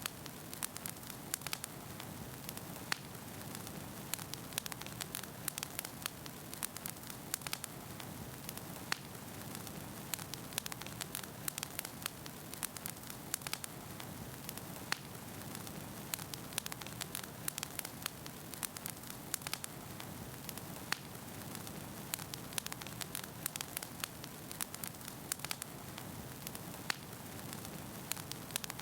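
Wood fire burning in a fireplace: a steady low rush of flames with frequent sharp crackles and pops from the logs at irregular intervals.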